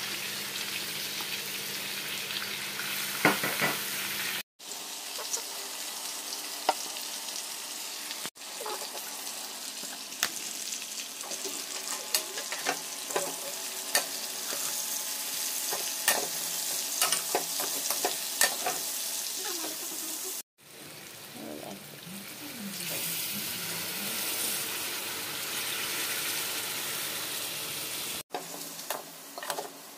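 Chicken wings sizzling in a frying pan while a metal slotted skimmer stirs them, clicking and scraping against the pan. The sound breaks off abruptly four times where the footage is cut.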